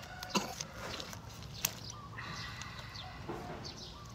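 Short bird-like chirps and calls, with two sharp clicks, one about half a second in and another a little past a second and a half.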